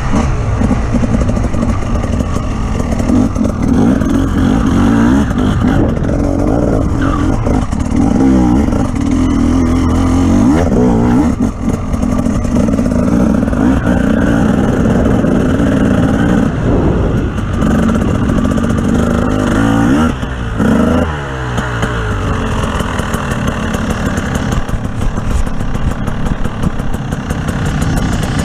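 Offroad vehicle's engine running under load, revving up and falling back several times, with short drops in level about eleven and twenty seconds in.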